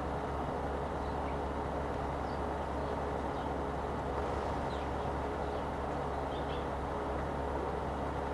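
Eurasian tree sparrows giving short, scattered chirps, faint over a steady low background rumble.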